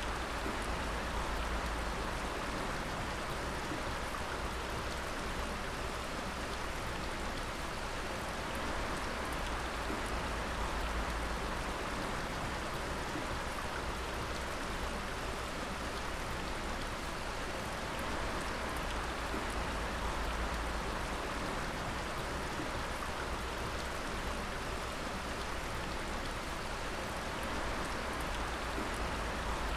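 Water dripping steadily in a dense patter of drops splashing onto water and wet ground, with a low rumble underneath.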